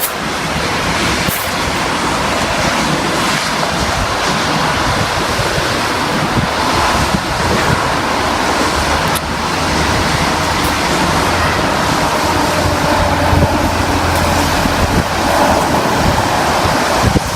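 Heavy rain falling steadily: a loud, even hiss.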